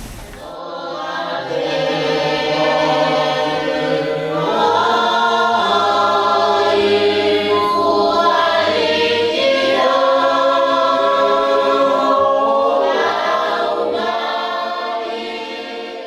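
A choir of voices singing long held chords in harmony, swelling in during the first second or two and fading away near the end.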